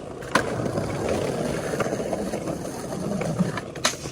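Skateboard wheels rolling over pavement with a steady rumble, broken by two sharp clacks, one near the start and one near the end.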